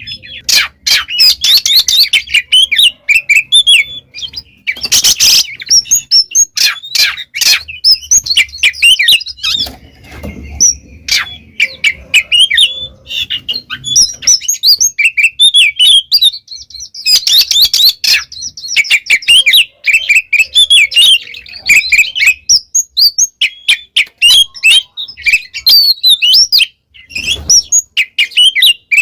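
Oriental magpie-robin (kacer) singing steadily in full song: a fast, varied run of whistles and chirps with a few short breaks.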